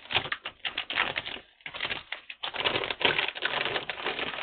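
Dry bird feed rattling as it is scooped and poured into feed bowls: a dense run of small clicks with brief pauses.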